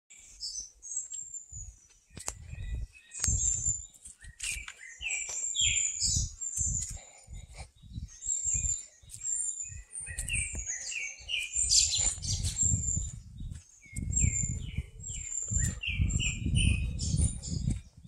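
Songbirds chirping and calling, many short high notes repeated in quick series throughout, over irregular low rumbling thuds.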